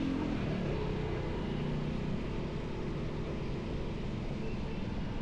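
Motorcycle engine running steadily with road and wind noise while riding.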